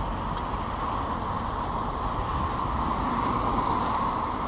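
Road traffic: a steady rumble of passing vehicles, growing a little louder toward the end.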